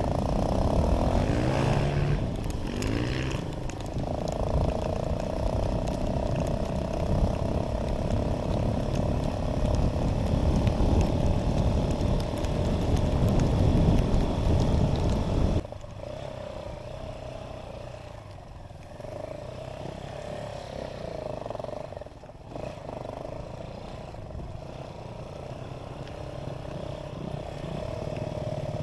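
Dirt bike engine running under way, revving up in the first few seconds, under heavy wind rush. About halfway through the rush drops away suddenly and the engine carries on more quietly.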